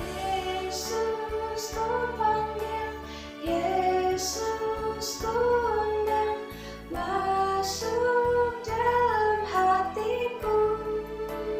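A woman singing a children's worship song over instrumental accompaniment.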